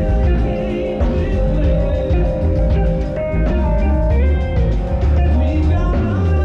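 A band playing rock-style music with guitar, drums and a heavy bass line, with no singing.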